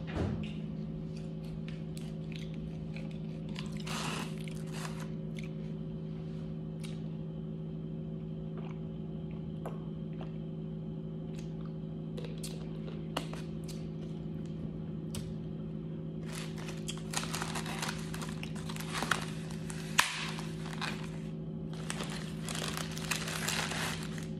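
Close-up chewing and crunching on fried chicken wings, in scattered clicks and longer crunchy stretches that build up during the second half. A steady low hum runs underneath.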